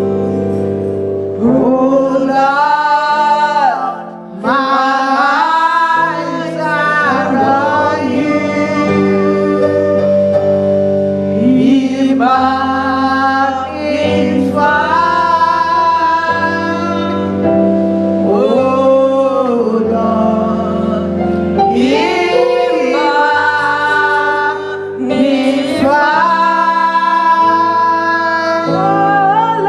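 Church choir singing a slow gospel worship song over held instrumental chords, in phrases a few seconds long with long, wavering sustained notes.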